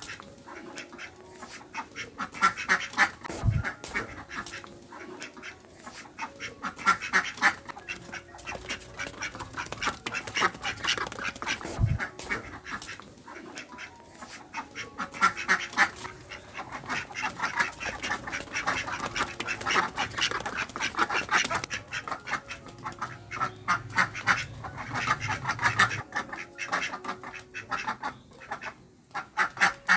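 Ducks quacking in repeated bouts of rapid calls, with short pauses between bouts.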